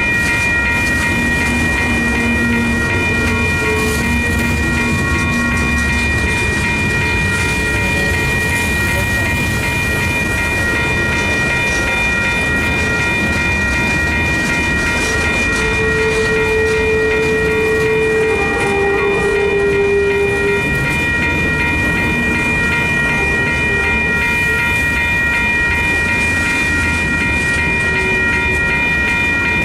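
Freight train of boxcars and refrigerated boxcars rolling steadily past at close range, wheels running over the rails, with a steady high-pitched squeal held over the rumble.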